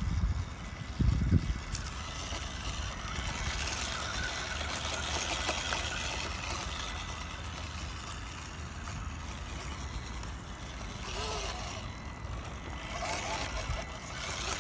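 Small electric off-road RC trucks driving over rough dirt, their motors and gears whirring steadily, with low rumble and a couple of thumps near the start.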